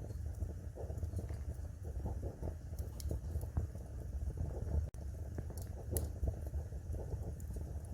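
Wood fire crackling: irregular sharp pops and snaps over a low, steady rumble, with a momentary break in the sound about five seconds in.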